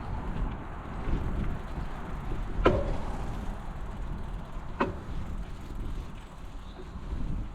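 Ride-along sound of a bicycle on the move: a steady low rumble of tyres and wind, with two sharp clacks, a loud one a little under three seconds in and a smaller one about two seconds later, as the bike jolts.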